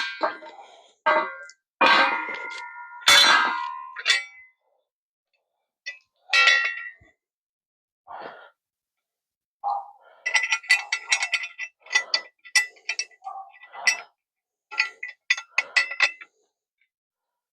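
Steel hand tools, likely wrenches, clanking and ringing as they are handled and set down. There are a few separate clanks with ringing in the first half, then a quick run of clinks through the second half.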